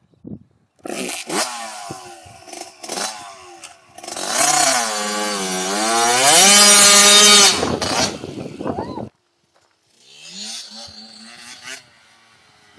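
Small motorbike engine revving, its pitch dipping and climbing back, loudest around the middle. It stops abruptly about nine seconds in, and the engine is heard again more quietly near the end.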